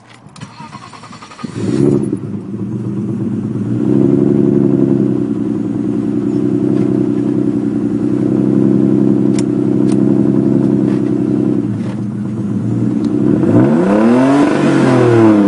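A 1983 BMW 533i's straight-piped straight-six starts up about a second and a half in and runs loudly and steadily. It is revved once near the end, the pitch rising and falling back.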